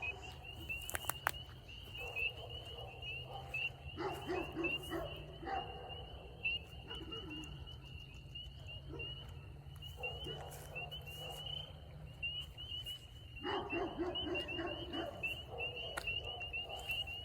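A night chorus of spring peepers: many high-pitched peeps overlapping in a dense, unbroken trill. Three times, bursts of lower calls rise over the chorus for a second or two.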